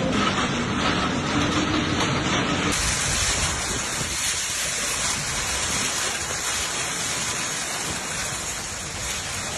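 A low rushing noise for the first few seconds. Then, after a sudden cut, a steady hiss of heavy rain pouring down.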